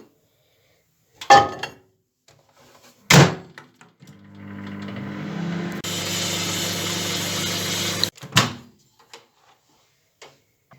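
Microwave oven door knocking shut, then the oven running with a steady hum and fan noise for about four seconds before it cuts off suddenly, followed by another door knock and a few small clicks.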